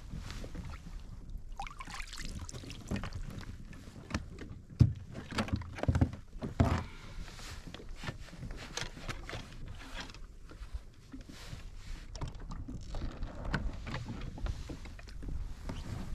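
Knocks and thuds against a fishing kayak, with a steady rumble of water and wind on the microphone. A few louder thuds come near the middle.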